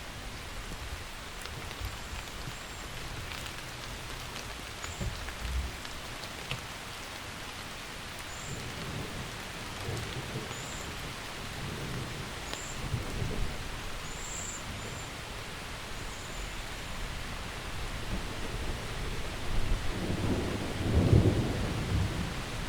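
Steady rain falling with thunder rolling: low rumbles in the middle and a louder peal of thunder near the end.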